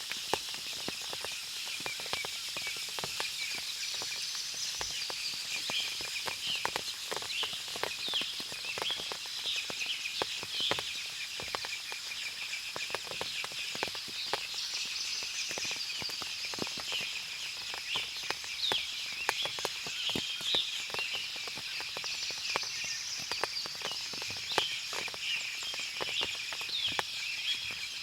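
Forest ambience after rain: many birds chirping in short, rapid calls, with frequent sharp drips of water falling from the trees and a steady high hiss underneath.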